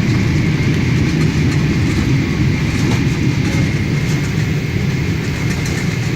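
Emirates Boeing 777-300ER rolling on the ground after landing: a steady low rumble with a faint, thin whine above it.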